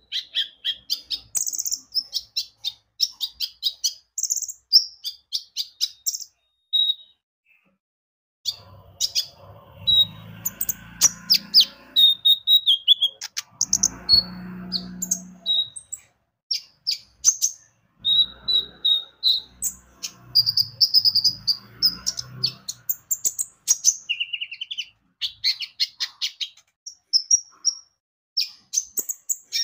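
Brown-throated sunbird (kolibri ninja) singing in rapid strings of sharp, high chirps and twitters, with a brief pause about seven seconds in. A quieter, lower background murmur comes and goes underneath in the middle stretch.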